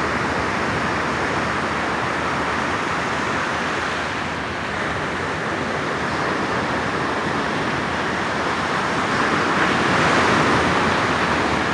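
Surf from a rough, stormy sea breaking on a beach: a steady rush of waves that swells a little near the end.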